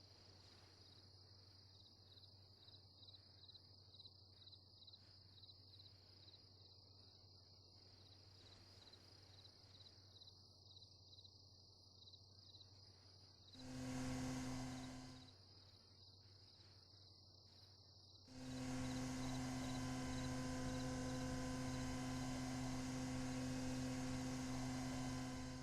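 Insects trilling steadily, cut across twice by a loud, steady, low pitched hum that starts and stops abruptly: once for about a second and a half past the middle, then again for the last seven seconds.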